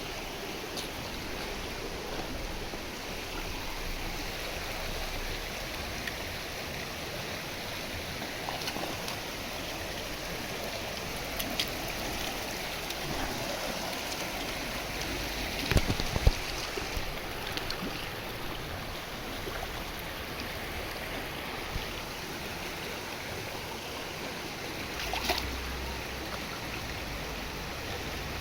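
Steady rushing hiss, with a brief cluster of knocks about halfway through.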